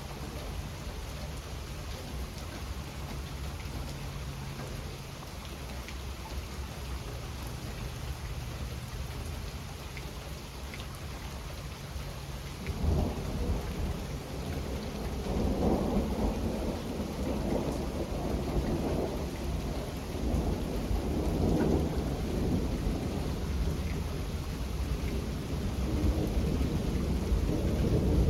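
Steady rain with scattered drops. About halfway through, thunder starts rumbling low and keeps going, swelling twice.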